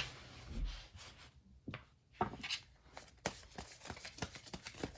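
Tarot cards being handled and shuffled: soft rustling with a scatter of short card snaps and clicks.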